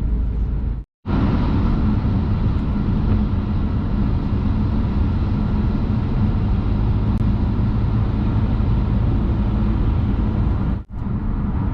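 Steady road and engine noise heard inside a car driving on a highway. The sound cuts out for an instant about a second in and again near the end.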